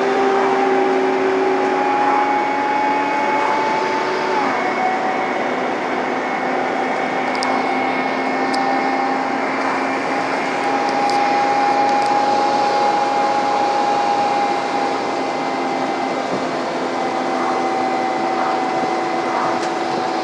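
Scania N230UD double-decker bus engine pulling hard uphill with a vacuum-cleaner-like whine, the "hoover thrash". The whine climbs and then drops sharply about four seconds in.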